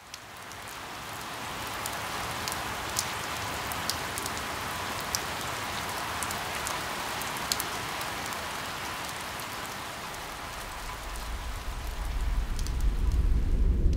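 Steady rain falling, fading in at the start, with single drops ticking sharply now and then. A deep rumble swells up over the last few seconds.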